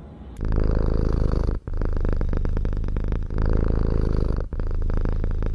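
Cat purring in a fast, even rumble that starts about half a second in and runs in three long stretches broken by two brief gaps.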